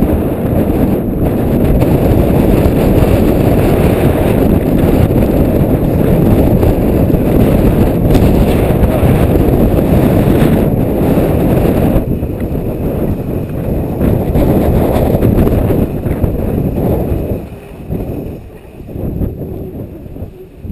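Loud, low rumble of blizzard wind buffeting a head-mounted GoPro's microphone while skiing. It eases off a few seconds before the end, then picks up again.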